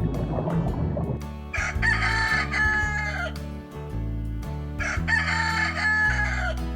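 Rooster crowing twice, each crow a long call of nearly two seconds, over background music.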